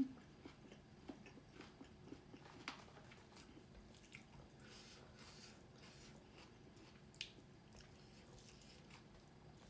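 Faint eating sounds of a person chewing close to the microphone: soft mouth noises with a few sharper clicks and smacks, the loudest about three and seven seconds in.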